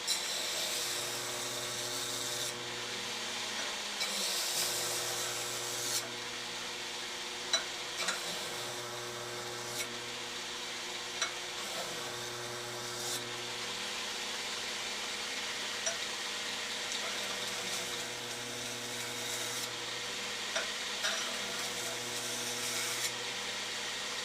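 Burr King belt grinder running at low speed with a 220-grit belt, its motor humming steadily while a steel knife blade is pressed to the belt in repeated passes. Each pass brings a hissing grinding noise that comes and goes, with a few light clicks between passes. This is the final finishing grind of the blade.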